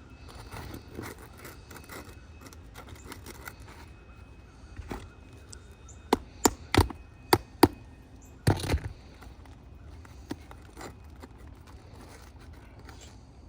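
A hand tool knocking on roof shingles while nails are worked loose: five sharp taps in quick succession about six seconds in, then one heavier knock.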